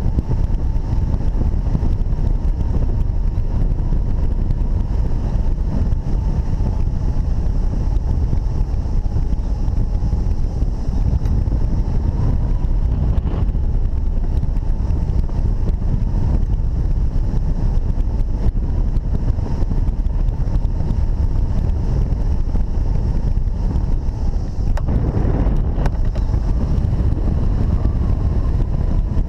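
Wind rushing over the camera microphone in hang glider flight: a loud, steady low rumble with a faint steady high tone running through it, briefly swelling about 25 seconds in.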